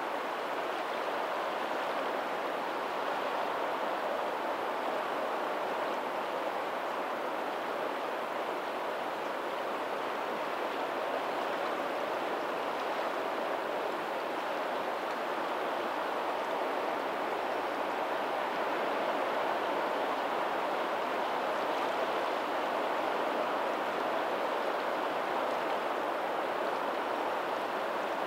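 Tidal outflow water of a lagoon running steadily over a pebbly shore, an even rushing and rippling, with faint ocean surf from the sea blended in.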